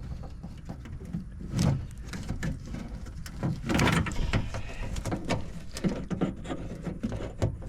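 Hands working inside a car door, fitting the window motor's wiring connector: scattered clicks, rustles and light knocks of plastic and metal parts, with louder handling noises about 1.5 and 4 seconds in.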